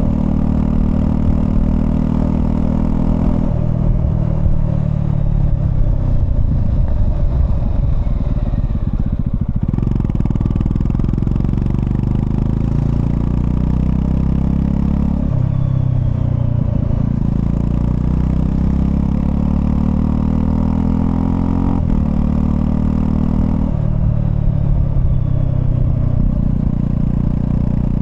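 Honda CL250 motorcycle engine under way, pulling up through the revs and dropping sharply in pitch at each upshift, several times. For a few seconds in the first half the revs ease off and fall.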